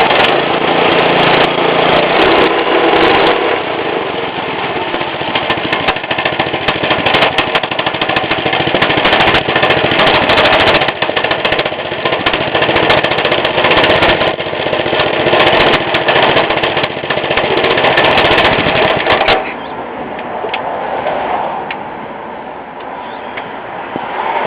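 Small 97cc Baja four-stroke mini bike engine running loud and fast, then dropping to a much quieter sound about nineteen seconds in.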